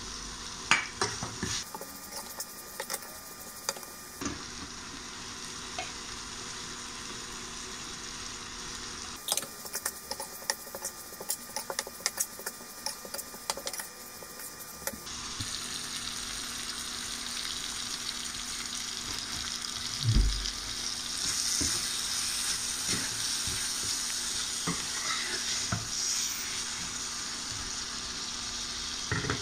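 Chili sambal frying in a stainless steel pan, with a metal slotted spatula scraping and clicking against the pan as it is stirred. The sizzle grows steadier and louder after about halfway, and there is a single dull thump about two-thirds of the way through.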